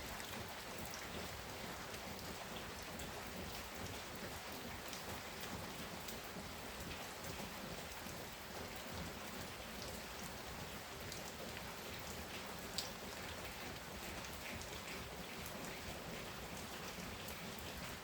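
Heavy rain pouring down steadily, with many small drop ticks scattered through it and one sharper tick about thirteen seconds in.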